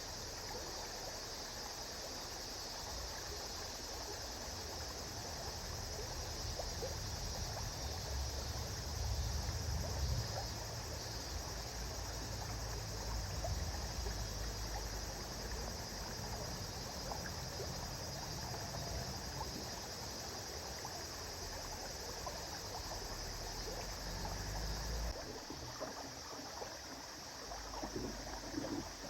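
A river flowing: a steady rush of running water, with a low rumble underneath that drops away suddenly near the end.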